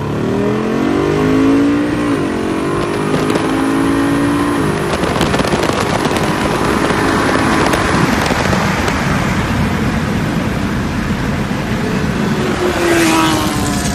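Race engines under full throttle in a street drag race between a twin-turbo Chevelle and a built-engine Kawasaki ZX-10R. The engine note climbs in pitch and drops at gear changes twice in the first few seconds, then gives way to a loud, steady rushing noise. Near the end an engine note falls in pitch.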